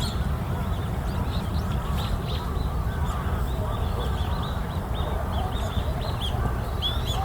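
Many birds calling at once: a dense run of short high chirps over lower, busier calls, with a steady low rumble underneath.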